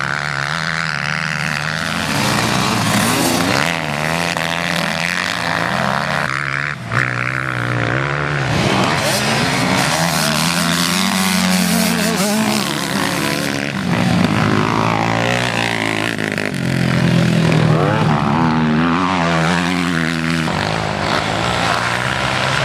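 Several motocross bikes racing, their engines revving up and down and overlapping as they accelerate and shift.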